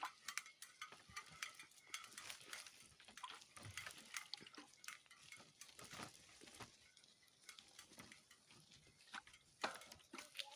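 Faint, irregular clicking and crackling of a bicycle being ridden over a forest track: tyres crunching over twigs and ground, with light rattling from the bike.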